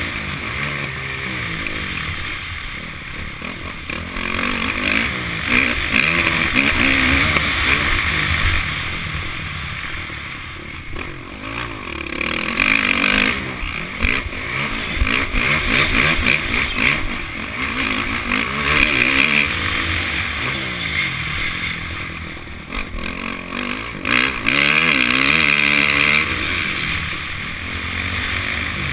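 Honda CRF450's single-cylinder four-stroke engine revving up and down repeatedly as the motocross bike is ridden hard around the track, picked up close by an onboard action camera, with a steady rush of wind or track noise underneath.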